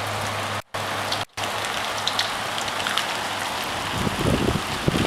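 Steady rain pattering on a roof and its gutter screen, with a faint low hum in the first few seconds. The sound cuts out twice for an instant about a second in, and low uneven rumbling on the microphone comes in near the end.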